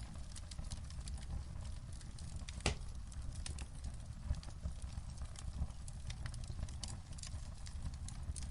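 Wood fire crackling in a fireplace: a steady low rumble with many small irregular pops, and one louder pop about three seconds in.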